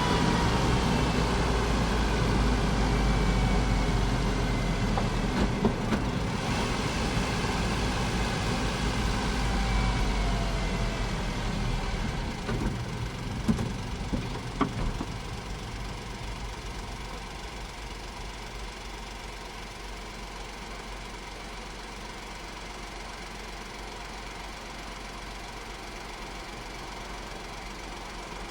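Honda S660's small turbocharged three-cylinder engine slowing down, its pitch falling steadily over the first ten seconds or so, then settling into a quieter, steady idle about halfway through. A few sharp clicks come near the middle.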